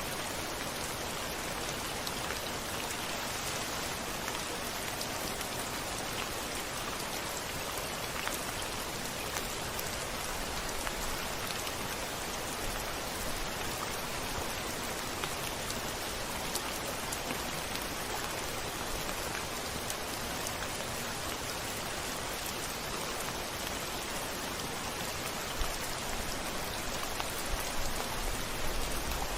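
Steady rain falling on a window pane, individual drops ticking through the hiss. A low rumble builds in near the end.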